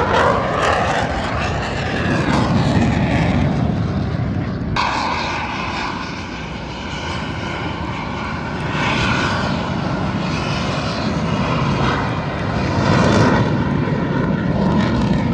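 Fixed-wing aircraft engines passing overhead, a loud, continuous engine sound that swells and fades in waves. There is an abrupt change in tone about five seconds in.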